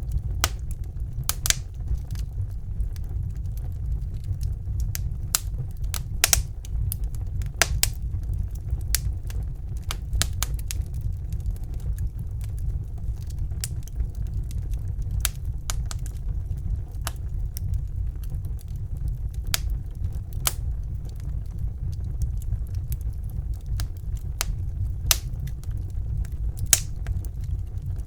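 Wood fire burning in a fireplace: sharp, irregular crackles and pops, a couple a second, over a steady low rumble.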